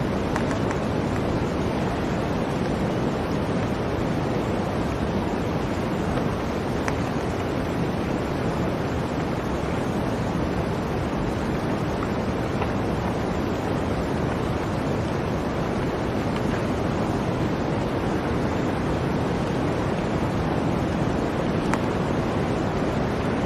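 Blizzard wind blowing steadily, a dense, even rush of noise with no gusts or breaks, with a few faint clicks.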